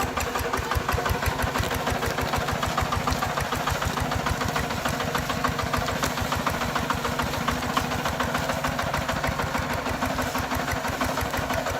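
Kubota RT140 single-cylinder diesel engine running steadily at a constant speed, with an even, rapid beat of firing strokes.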